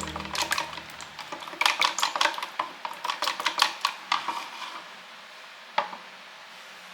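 Kitchenware being handled: a quick run of light clinks and clatters for about the first four seconds, then quieter, with one last knock near the end.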